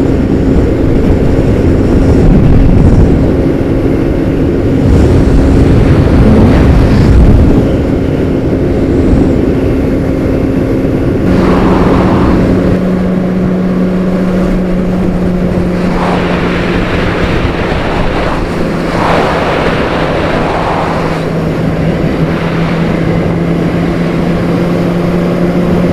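Honda CBR600RR's inline-four engine running at a steady cruise, with heavy wind noise. About eleven seconds in, the engine note drops to a lower steady pitch and the wind noise eases.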